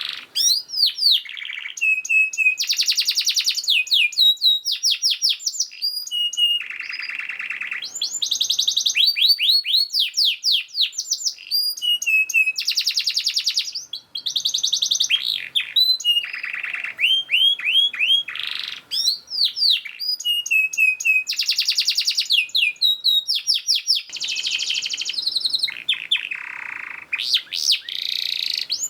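Domestic canary singing a fast, tightly packed song: runs of quickly repeated rising and falling notes alternate with rapid buzzing trills, one phrase after another with hardly a break.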